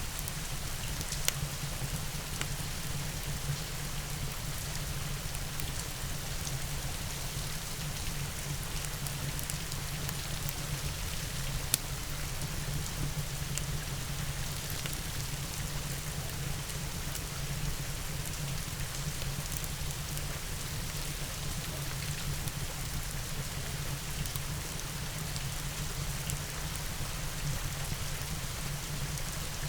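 Steady rain, with a few sharp crackles from a wood fire, one near the start and another about twelve seconds in.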